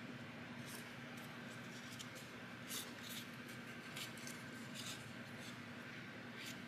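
Faint rustles and soft crinkles of thin paper being accordion-folded by hand, with a few light ticks scattered through, over a low steady hum.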